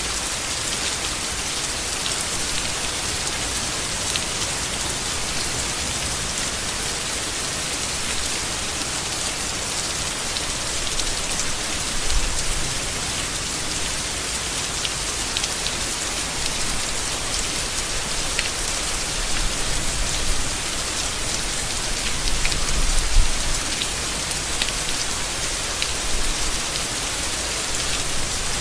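Steady rain falling on leaves, with separate drops ticking through it. A few brief low rumbles come about halfway through and again toward the end.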